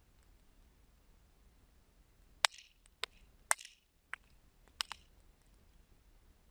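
Wood fire crackling: a cluster of about six sharp pops and snaps over a couple of seconds mid-way, the first the loudest, some trailing a brief hiss, over a faint quiet burn.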